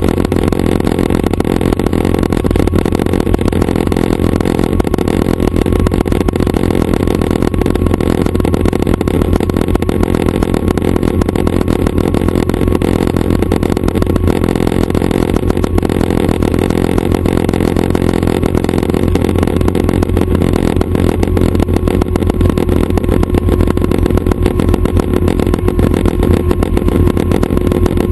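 Schweizer 269 light helicopter running steadily: its four-cylinder piston engine and rotors make a loud, even, low-pitched sound.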